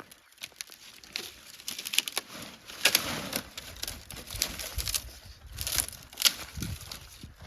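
Dry twigs and brushwood being snapped and handled: irregular sharp cracks mixed with rustling, busiest in the middle.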